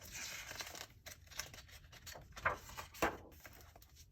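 Faint rustling and a few soft clicks of handling noise in a quiet small room, the sort made by a book's paper pages being handled.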